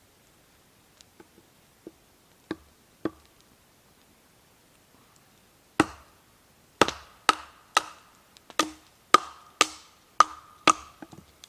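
Chopping: a run of sharp knocks with a short ring after each. A few soft ones come first, then about ten louder ones at roughly two a second, starting about six seconds in.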